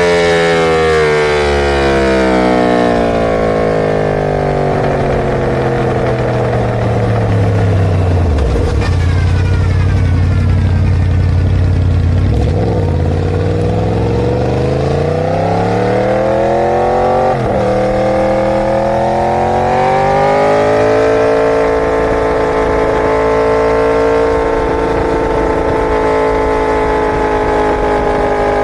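Inline-four superbike engine running under load, its pitch falling steadily to a low note over the first third. After a few seconds low, it climbs again and holds a high steady note through the last third.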